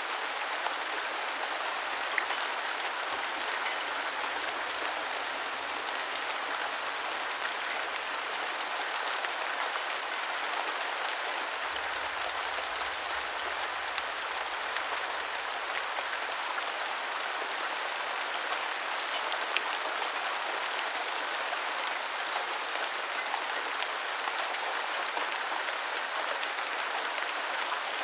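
Steady rain falling, an even hiss with scattered ticks of single drops striking a surface.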